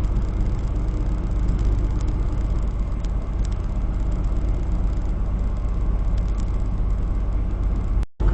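Semi-truck cab interior while driving: a steady low drone of the diesel engine and road noise, with a few faint ticks. The sound cuts out for a moment near the end.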